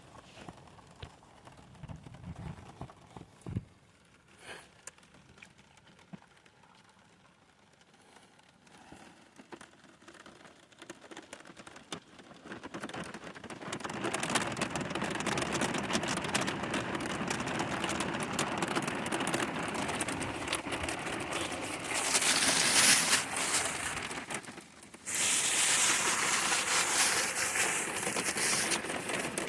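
Hard rain falling on a boat's cuddy cabin, heard from inside the cabin. It is quiet at first with a few short knocks, then the rain builds after about twelve seconds and comes down harder in two heavier spells in the last third.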